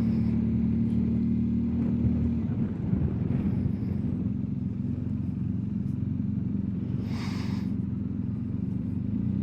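BMW R1250GSA's boxer twin engine running steadily. A brief hiss sounds about seven seconds in.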